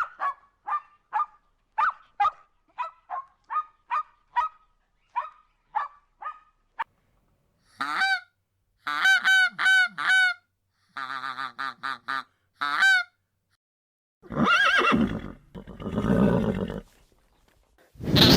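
A run of animal calls: about a dozen short chirps in quick succession, then a series of goose honks, then two long, loud, rough calls from a larger animal near the end.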